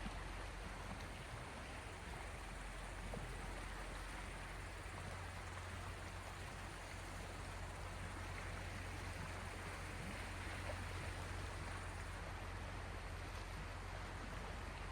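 Sea waves washing steadily in an even hiss, with a steady low rumble underneath.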